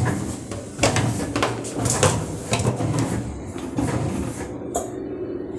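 Electrolux automatic washing machine drum turning back and forth over a low motor hum, with irregular clicks and knocks, as the machine weighs the laundry load.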